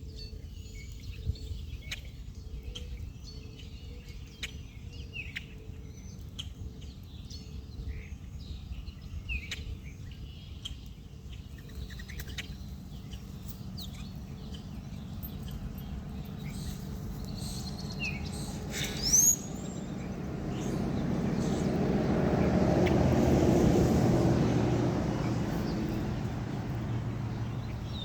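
Small birds chirping on and off over a steady low rumble. About two-thirds of the way through, a broad rushing noise swells to a peak and then fades away.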